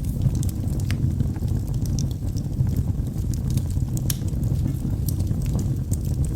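Logs burning in a fireplace: a steady low rumble of flames, with frequent, irregular sharp crackles and pops.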